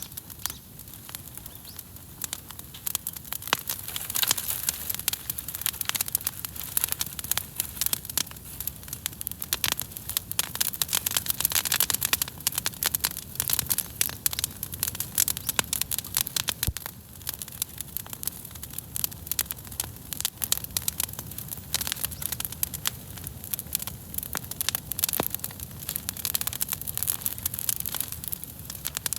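Wood campfire crackling, with dense irregular snaps and pops that grow busier a few seconds in.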